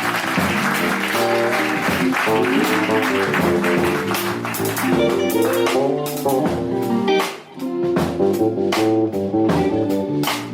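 Live jazz band playing, with the guitar prominent over bass and piano. The music dips briefly about seven seconds in, then drum cymbal strokes come through.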